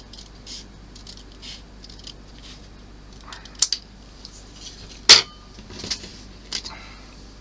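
Small model-kit parts being handled on a work surface: light handling noise and a few sharp clicks and taps, a quick pair about three and a half seconds in and the loudest single click about five seconds in.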